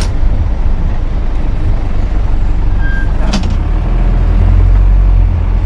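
A vehicle's engine and road noise heard from inside the vehicle while driving: a steady low rumble that grows louder in the last couple of seconds, with one short click about three seconds in.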